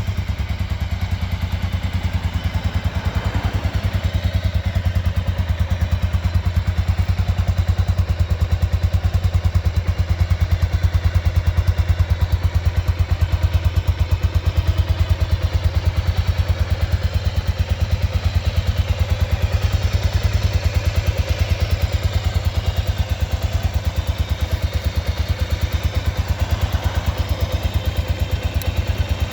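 Honda XBR500's air-cooled single-cylinder four-stroke engine running steadily at idle, a fast even beat of exhaust pulses that holds the same pace throughout.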